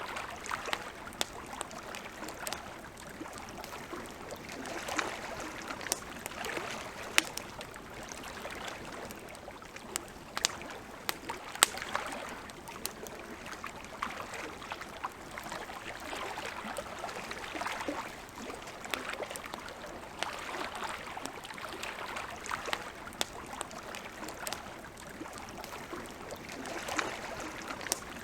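Wood campfire crackling, with sharp irregular pops and snaps, a few louder than the rest, over a soft hiss that swells and fades, like water lapping at a lakeshore.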